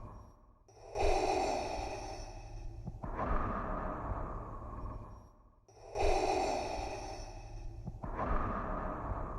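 Darth Vader's respirator breathing sound effect: a slow, hissing mechanical inhale and exhale. Two full breath cycles of about five seconds each, each breath lasting about two seconds with a short pause between.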